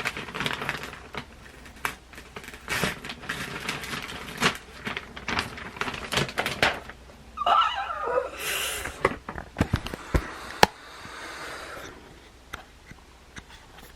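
Cardboard box and packing paper being handled and rustled while unpacking, with irregular crinkles and clicks, a brief squeaky, wavering sound about eight seconds in and a soft hiss shortly after.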